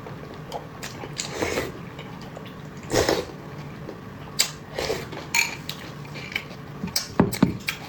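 Tableware and eating utensils clinking and knocking against dishes in irregular short strikes, with a cluster of sharper clicks near the end.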